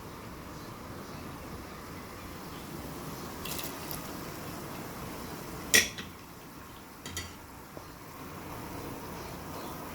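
Kitchen utensil clinking against cookware a few times, the loudest knock about six seconds in, over a steady hiss.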